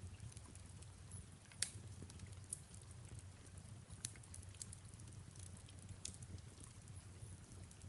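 Wood fire crackling in a fireplace: scattered small pops and snaps, with one louder pop about a second and a half in, over a faint steady low rumble.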